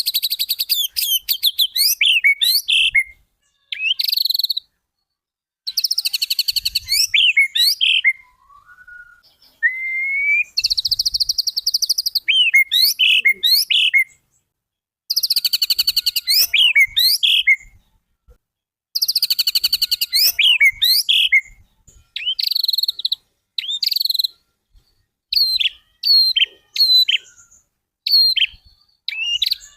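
White-rumped shama (murai batu) singing full 'tembakan' song: high, rapid rattling trills and quick sweeping whistles, in phrases of one to three seconds separated by short pauses.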